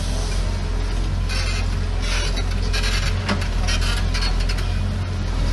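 Heavy diesel construction machinery running with a steady low rumble, with short bursts of rasping, hissy noise a few times in the middle.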